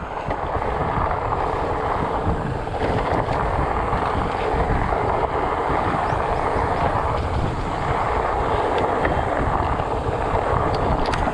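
Steady rushing wind noise on the microphone, with an uneven low rumble underneath.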